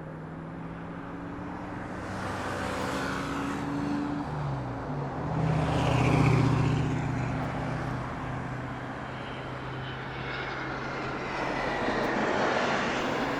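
Jet airliner engines passing, the engine tones dropping in pitch as the aircraft goes by. The sound is loudest about six seconds in and swells again near the end.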